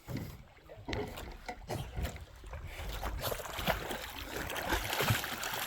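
A dog swimming, its paddling making a splashing, sloshing sound in the water.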